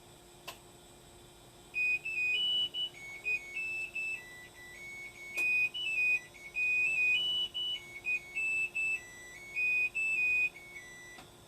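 Hitachi BEAT WASH SLIM washing machine's electronic buzzer playing a tune of stepped single-tone beeps, the chime that signals the end of the cycle. Two sharp clicks come just before the tune and about halfway through it, over a faint steady hum.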